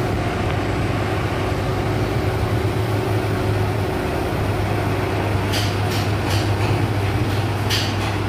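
Steady, loud drone of heavy machinery or an engine with a low hum, joined after about five seconds by several short hissing bursts.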